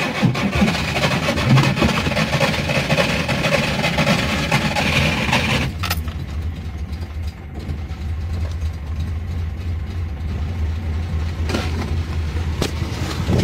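Škoda 120's rear-mounted four-cylinder petrol engine being cranked by the starter on five-year-old petrol, primed with fuel poured in directly. About six seconds in it catches and settles into a steady low idle.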